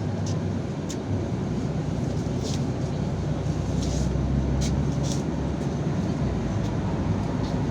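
Yutong ZK6128HG city bus on the move, heard from inside the cabin: a steady engine and road drone with scattered sharp clicks. The low drone grows stronger partway through and eases about six seconds in.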